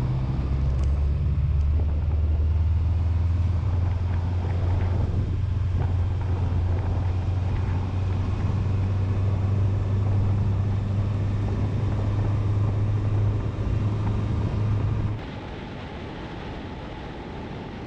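Motorcycle engine running at a steady pitch with a deep, even hum. About fifteen seconds in it cuts off abruptly, leaving a quieter steady noise.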